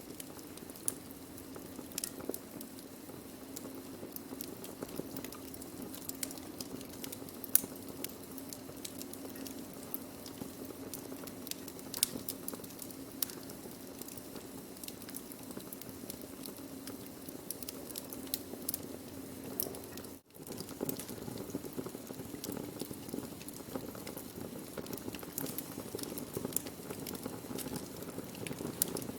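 Burning wood fire crackling: frequent sharp pops and snaps of varying loudness over a steady low hiss of the flames, with a split-second dropout about twenty seconds in.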